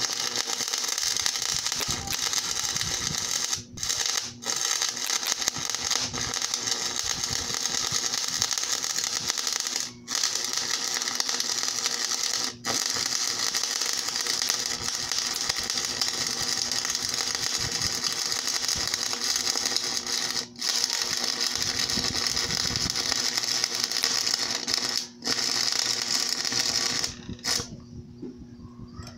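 Electric welding arc from a homemade welder built from two microwave-oven transformers: a steady crackling hiss over a low hum. It cuts out for a moment about seven times as the arc breaks and is struck again, and it stops a couple of seconds before the end.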